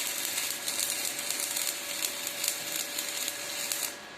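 Stick (shielded metal arc) welding arc crackling steadily during a short test run to check the amperage setting, then cutting off abruptly near the end; the welder judges the current too weak.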